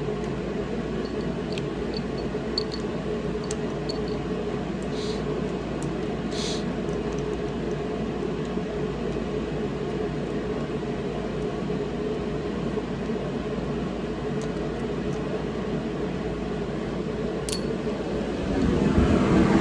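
Steady background hum with a few light, sharp metallic clicks of engine parts and tools being handled. A louder, broader noise comes in near the end.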